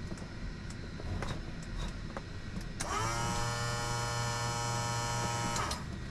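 A small electric motor whirs for about three seconds. It spins up quickly to a steady pitch and then stops, after a few light clicks over a low steady hum.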